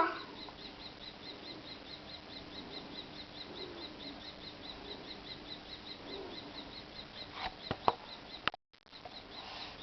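Birds moving about with soft low calls, over a faint steady high ticking about three or four times a second; a few sharp clicks near the end.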